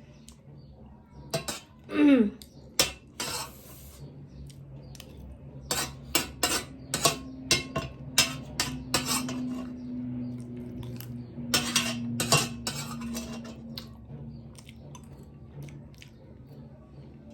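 Cutlery clinking and scraping against a plate during a meal: a series of short, sharp clinks at irregular intervals.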